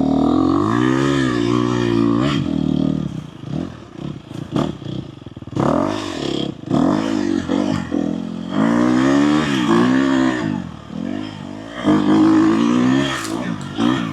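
Dirt bike engine revving up and down over and over as it is ridden along a rough trail, with clattering knocks from the bike between the throttle pulls.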